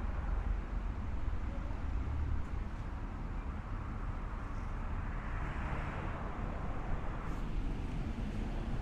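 Ocean waves washing on the shore, a steady hiss that swells a little past the middle, with wind rumbling on the microphone.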